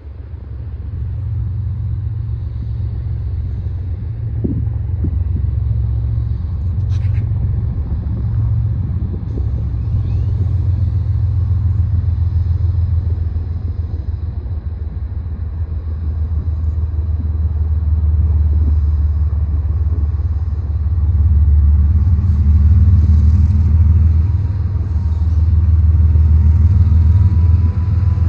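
Low, steady rumble of an approaching freight train's diesel locomotives, led by a GE ES44AC, growing somewhat louder as the train nears.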